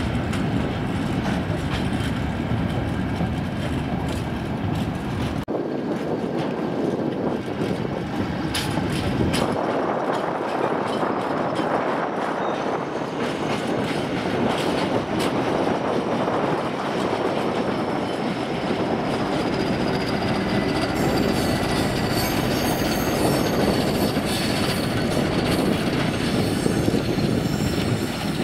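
Empty open steel-scrap wagons of a freight train rolling past, wheels clattering steadily over rail joints and points. A thin, high wheel squeal joins in during the second half.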